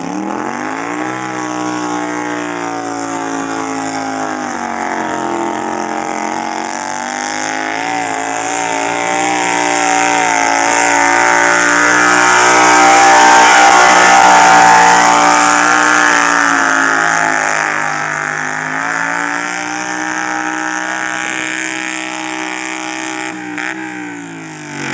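Mini pulling tractor's engine revving up and running hard at high revs through a pull. The pitch sags briefly about five seconds in, the sound is loudest about halfway, and the revs drop away near the end.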